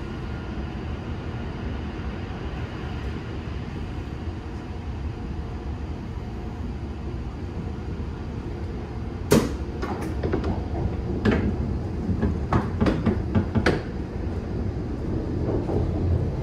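Hokuriku Shinkansen train heard from inside the passenger car as it pulls out of a station: a steady low running rumble that builds toward the end. About nine seconds in comes a series of sharp clacks, the wheels crossing the station points.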